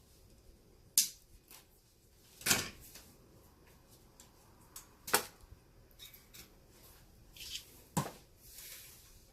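Handwork on a baseball glove under repair: a few sharp clicks and knocks, four of them loud and spread a couple of seconds apart, with fainter ticks and rustling between.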